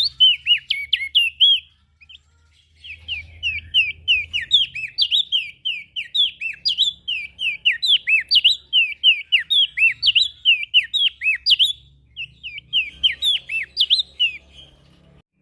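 Prenjak daun songbird singing a rapid, continuous run of short, sharp down-slurred whistled notes, several a second, with a pause about two seconds in and a brief break near the end.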